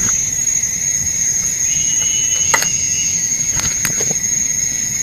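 Steady high-pitched drone of forest insects, with a few short sharp knocks about halfway through.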